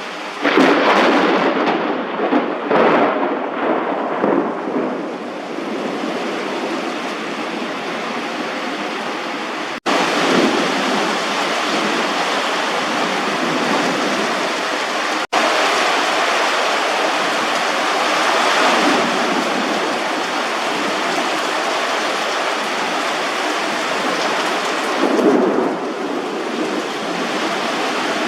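Heavy rain pouring steadily, with thunder rumbling in several swells, loudest in the first few seconds and again near the end.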